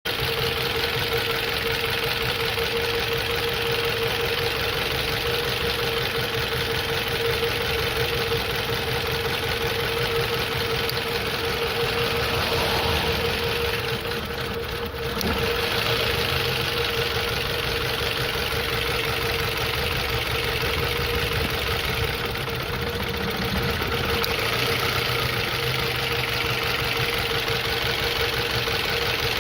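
Car engine idling with a misfire, its low running pulse uneven, under a steady whine. The sound dips briefly about halfway through.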